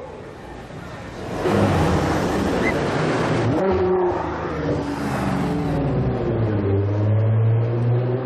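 Supercar engine revving loudly about a second and a half in, its pitch rising and falling through the gears. It then settles into a steady low drone near the end.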